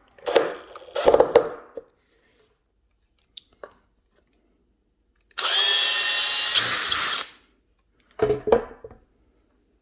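Makita 18V brushless hammer drill driving a 60 mm screw into timber on its highest torque setting, the motor whirring steadily for about two seconds, its whine wavering up and down twice just before it stops. A few knocks and handling clicks come in the first second or so.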